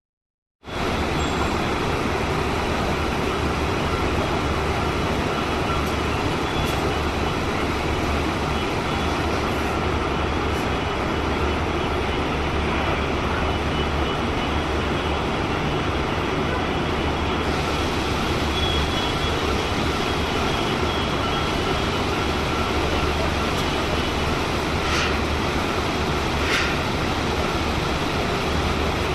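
Steady din of machinery on an engine-factory production floor: an even noise with a low hum, and two short sharp clanks about a second and a half apart near the end.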